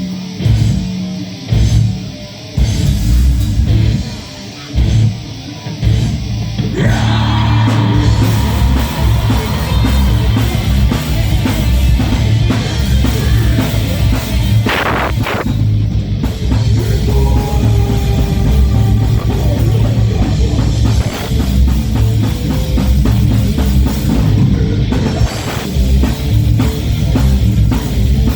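Live heavy metal band playing, with distorted guitars and drum kit. The song opens in stop-start hits with short breaks, then the full band comes in steadily about seven seconds in.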